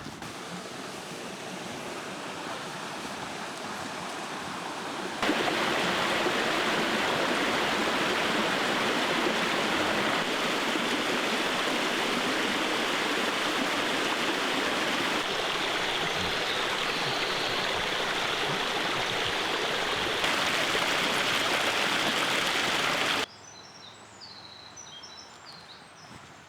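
Rushing stream water, a steady dense rush that jumps louder about five seconds in and shifts a little twice more. It cuts off suddenly near the end, leaving a quieter background with a few faint high chirps.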